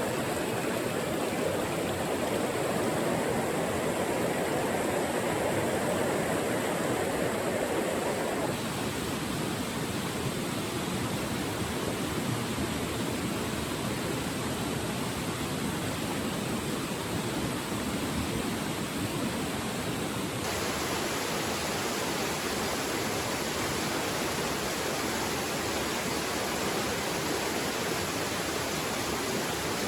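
Rushing water of a mountain stream: a steady, even rush with no distinct events. Its tone changes abruptly twice, about eight seconds in and about twenty seconds in.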